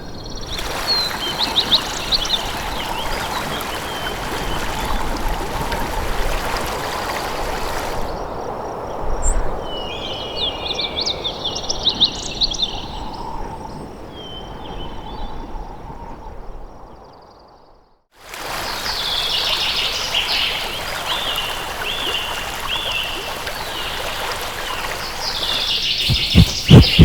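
Small birds chirping and trilling over a steady rush of flowing water, with two abrupt changes where the sound is cut, one a brief dropout about two-thirds of the way in. A few low thumps near the end.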